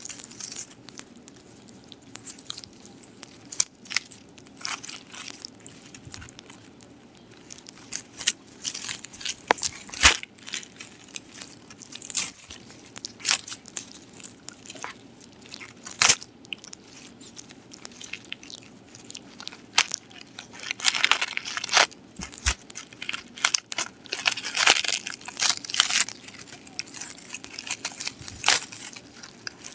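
A dog chewing crunchy food close to the microphone: irregular crunches and bites, coming in denser runs in the second half.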